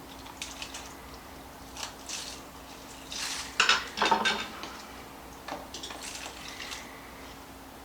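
A utensil scraping and clinking against a mixing bowl while the last of a soup-and-broth mixture drips out, with the loudest clatter about three and a half to four seconds in.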